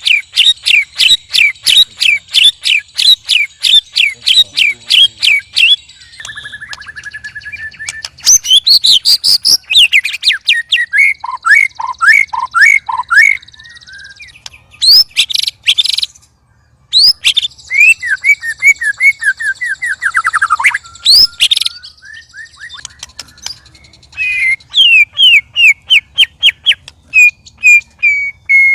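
White-rumped shamas singing loudly: fast runs of repeated sharp chirps, several a second, mixed with varied whistled and trilling phrases, with a brief pause about halfway through.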